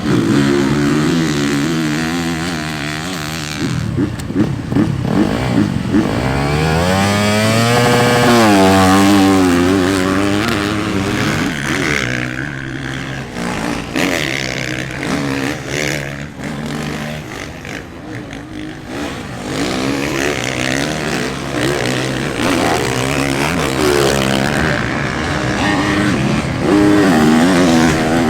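Motocross bikes' four-stroke engines revving hard and shifting as riders go round the track, the pitch climbing and dropping with the throttle. One bike swells up loudest about eight seconds in, and another comes up loud near the end.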